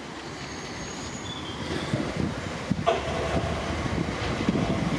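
South Western Railway Class 455 electric multiple unit running into the station, its wheel and rail noise growing steadily louder. Brief high squeals come in the first two seconds, and a sharp clack comes about three seconds in.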